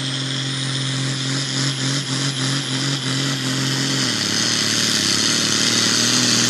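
Pulling tractor's engine running hard at high revs under load. The revs sag about four seconds in, then climb again near the end as the sound grows louder.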